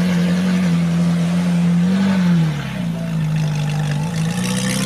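Ferrari 458 Italia's V8 engine running steadily. Its pitch lifts a little about two seconds in, then settles slightly lower.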